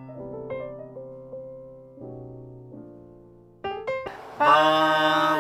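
Slow, gentle piano music, single notes and chords ringing and fading away. Just over four seconds in, a louder sustained chord comes in.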